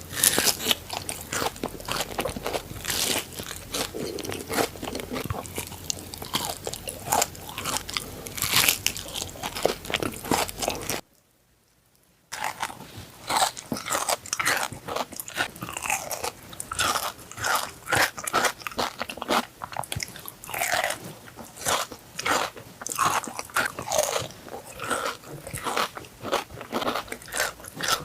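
Close-miked biting and chewing of Dubai chocolate: a chocolate bar filled with crisp kataifi pastry and pistachio cream, giving dense crunching and crackling. There is a break of about a second of near silence a little before the middle, then the crunchy chewing resumes.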